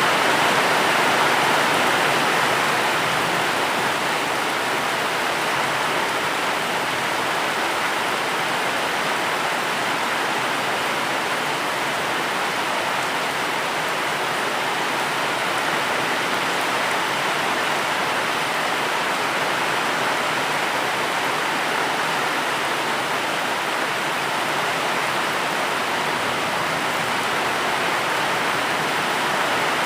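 Steady heavy rain: a dense, even hiss with no separate drops or thunder standing out.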